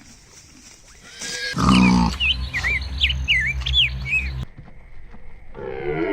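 A low farm-animal grunt with small birds chirping several times over it, cutting off abruptly; then a goat begins to bleat near the end.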